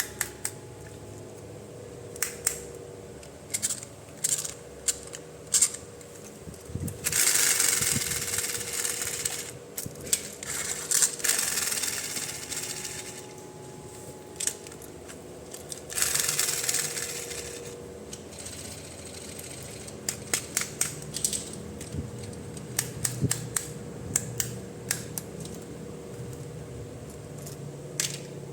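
Toy packaging and plastic parts being handled during an unboxing: many sharp clicks and taps, with several seconds-long stretches of rustling, crinkling packaging noise.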